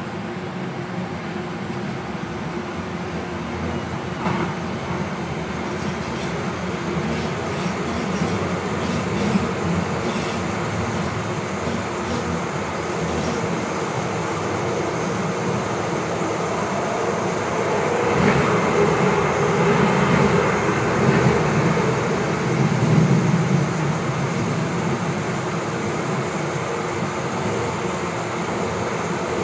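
Siemens-Duewag U2 light rail vehicle heard from inside the car while running along the track: steady wheel-on-rail and motor noise with a few faint clicks. It grows gradually louder and is loudest a little past the middle.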